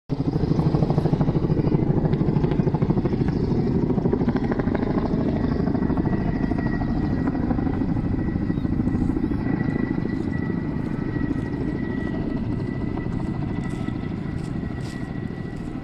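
Helicopter flying close overhead, its rotor chopping rapidly, slowly growing quieter as it moves away. A faint steady high tone sits under it in the second half.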